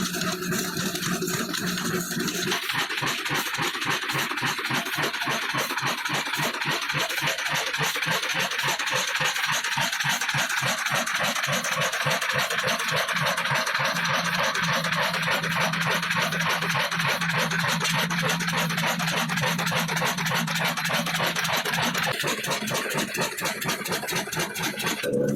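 Old Ruston & Hornsby diesel engine running steadily, its exhaust beating in a fast, even rhythm.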